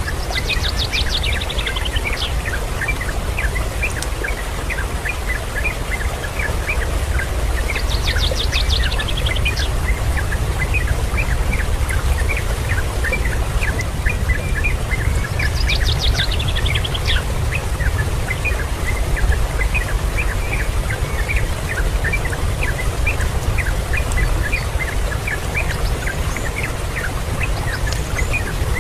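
Birds calling: a quick falling trill comes three times, about seven to eight seconds apart, over a steady stream of many short high chirps. A constant low rumble runs underneath.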